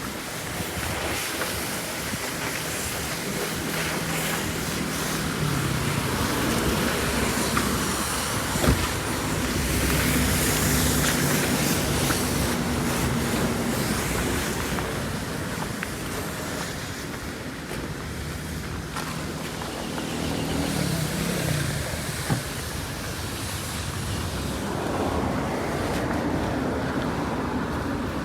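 Motor vehicle engines running and passing over a steady rushing noise, with a sharp knock about nine seconds in and another past twenty seconds.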